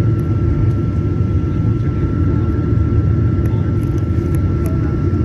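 Steady cabin noise of a Boeing 737-900ER with its CFM56-7B jet engines running: a deep continuous rumble with a constant high tone over it, heard from inside the passenger cabin.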